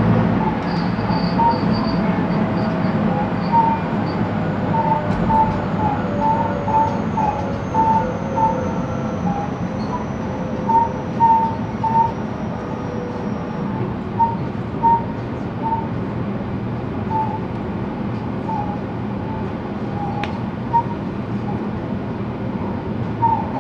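Running noise of a JR West 223 series electric train heard inside the car: a steady rumble of wheels on rail, with a faint high whine slowly falling in pitch over several seconds. Short high squeaks repeat irregularly throughout, and there is a sharp knock near the end.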